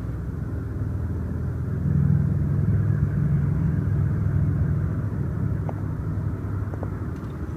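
Low vehicle engine rumble that swells about two seconds in and slowly fades away, like a vehicle driving past. A few faint clicks near the end.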